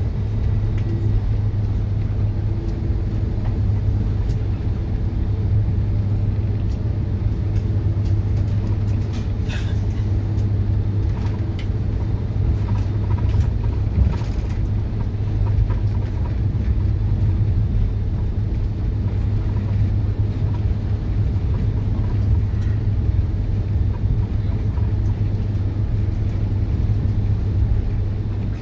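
Steady low cabin rumble of an Airbus A330 on the ground after landing, from engines, airframe and wheels, with a few faint clicks.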